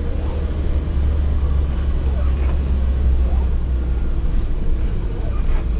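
UAZ Bukhanka van driving, its engine and running gear giving a steady low drone.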